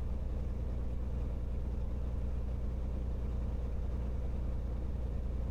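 Cirrus SR22T's turbocharged six-cylinder Continental engine idling steadily on the ground, a low even drone.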